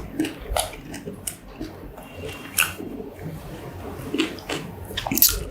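Close-miked chewing of a mozzarella corn dog: irregular wet smacking and clicking mouth sounds.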